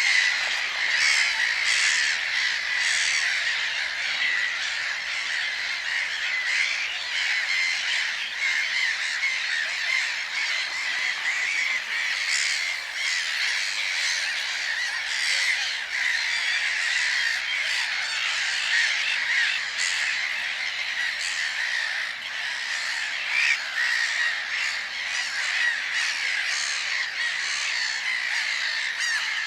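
Many birds calling at once in a dense, continuous chorus of overlapping calls, steady in loudness throughout.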